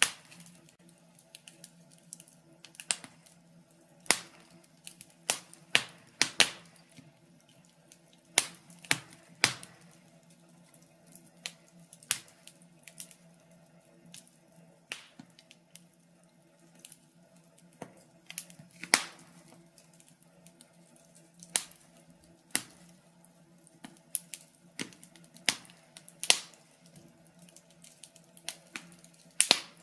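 Wood fire in a fireplace crackling: irregular sharp pops and snaps, a few much louder than the rest, over a faint steady hum.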